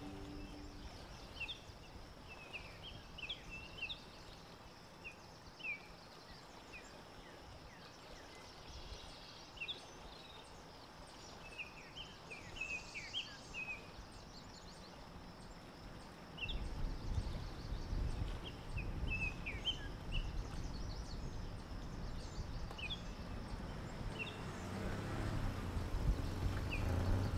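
Small birds chirping and calling, short scattered notes over a faint steady hiss. A low rumble comes in a little past halfway and grows louder near the end.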